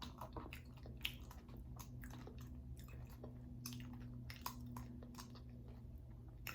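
A person chewing food close to the microphone: soft, irregular mouth clicks and smacks.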